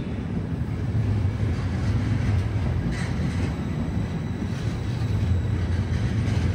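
Trenitalia Intercity passenger coaches rolling past along the platform: a steady low rumble of wheels on the track.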